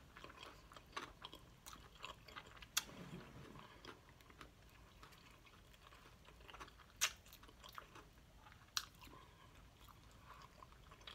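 Faint, close-miked chewing of fried chicken, with scattered wet mouth clicks and a few sharper clicks about three, seven and nine seconds in.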